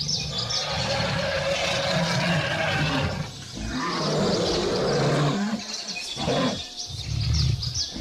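Lion roaring: two long roars, then shorter ones near the end, with birds chirping in the background.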